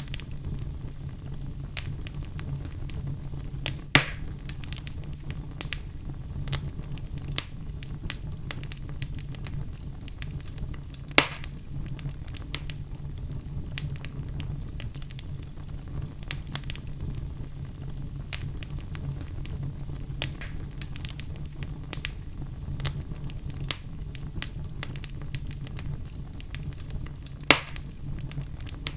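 Logs burning in a fireplace, crackling steadily with many small snaps over a low rumble of the flames. Three louder pops stand out, spread through the stretch.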